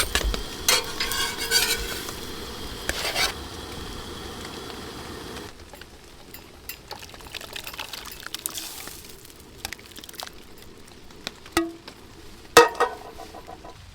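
Food frying in a pan on a propane camp stove, a steady sizzling hiss with loud scraping and clattering of a utensil in the pan over the first few seconds. The hiss stops suddenly about five seconds in, leaving light clicks and clinks of utensils on cookware and one sharp ringing metal clink near the end.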